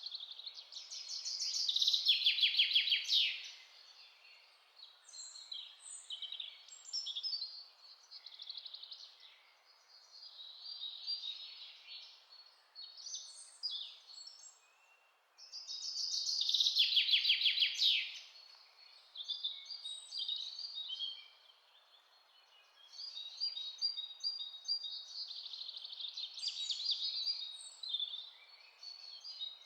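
Several songbirds singing and chirping, with two loud, rapid trilled phrases about fifteen seconds apart, over a faint steady hiss.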